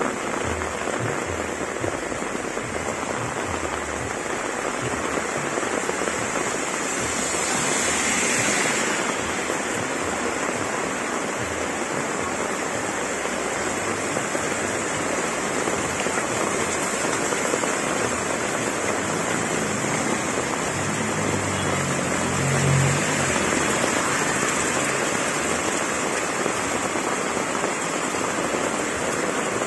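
Heavy tropical rain pouring onto a street and roofs, a steady dense hiss with water splashing off roof edges. The rain swells briefly about 8 s in, and a short low rumble comes through a little over two-thirds of the way in.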